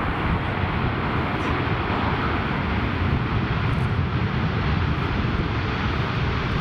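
Jet airliner engines heard from beside the runway: a loud, steady rushing roar that holds even throughout.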